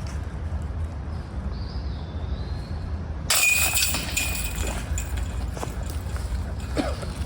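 Wind rumbling on the microphone, broken about three seconds in by a sudden loud clash that rings briefly and fades within a second.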